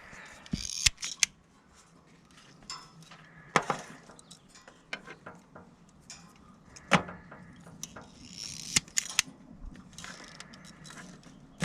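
Wire strippers working on automotive wiring: a series of sharp clicks and snaps, a few seconds apart, with light rustling of the wires between them.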